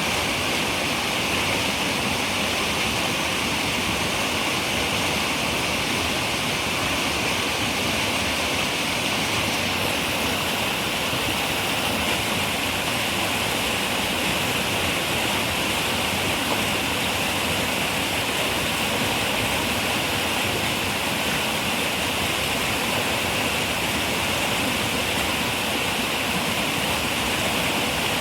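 River water running over rocks, a steady rushing flow with no pauses or changes.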